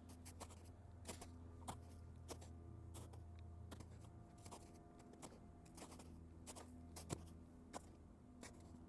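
Footsteps walking at a steady pace on icy ground, about one and a half sharp steps a second, over a faint steady low hum.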